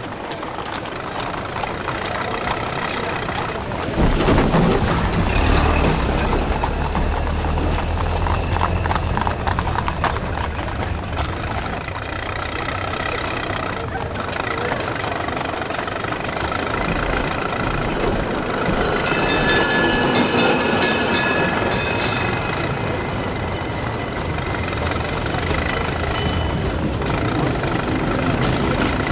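Street traffic ambience: a car engine running, getting louder about four seconds in, over a background of voices and street noise.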